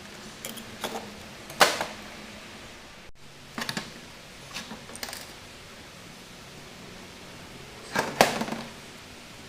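Small metal parts and tools handled on a workbench: scattered sharp clicks and short clatters, the loudest about a second and a half in and again near the end.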